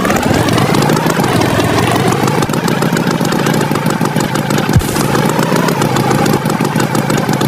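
Tractor engine running; its pitch rises at the start, then it runs steadily.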